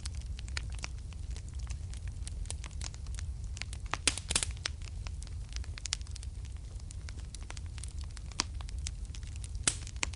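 Wood fire burning in a fireplace: a steady low rumble of flame with irregular sharp crackles and pops, a loud cluster of pops about four seconds in and another near the end.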